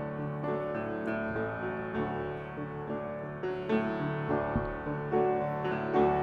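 Piano playing a run of sustained chords with no singing: an instrumental link between two sung songs of a medley.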